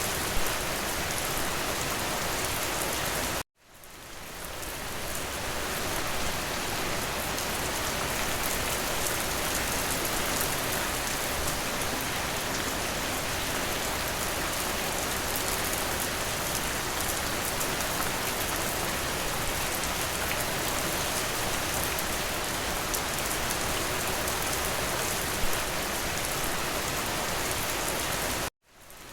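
Steady, even rain hiss with dense patter. The sound cuts out abruptly twice, about three and a half seconds in and again near the end, fading back in each time.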